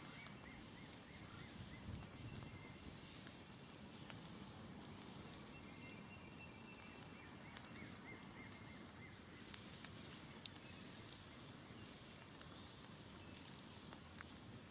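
Smoldering wood campfire crackling faintly, with a few sharper pops in the second half. Runs of small, quick chirping calls come from the background near the start and again around the middle.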